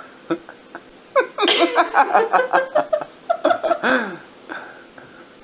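A person laughing in a quick run of short bursts, ending on a falling note.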